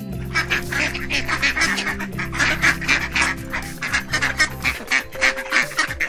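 Domestic ducks quacking in a rapid, continuous series of short quacks, several a second.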